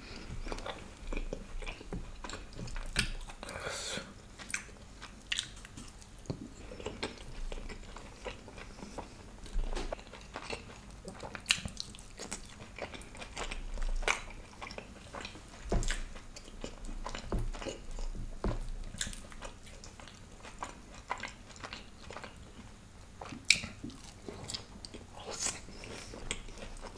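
A man chewing and biting food close to the microphone: irregular wet mouth clicks and soft crunches, with no steady rhythm.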